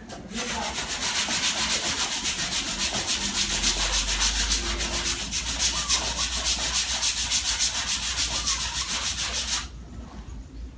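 120-grit sandpaper being rubbed over dried body filler on a dented car panel, in quick, even back-and-forth strokes that stop about a second before the end.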